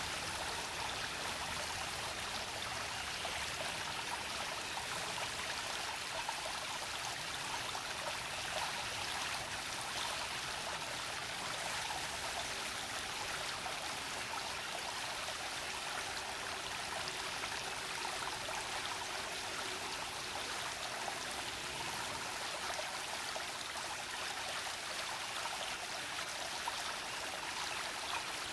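Small brook babbling and flowing steadily over rocks, an even, unbroken rush of water.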